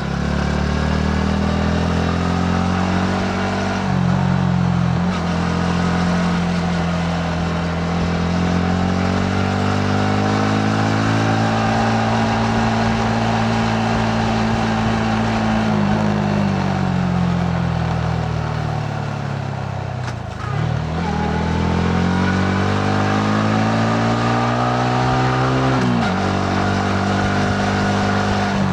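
Yamaha MT-15's single-cylinder engine under way, its pitch rising and falling with the throttle through the bends, over wind and road noise. About two-thirds through the revs drop sharply as the throttle closes and then climb again. Near the end the pitch steps abruptly down at a gear change.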